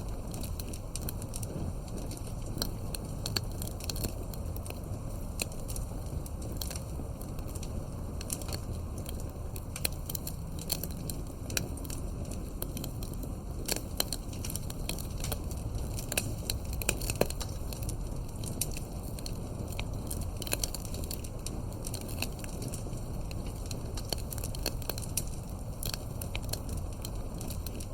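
Campfire with burning firewood crackling: frequent, irregular sharp pops and snaps over a steady low rumble of the flames.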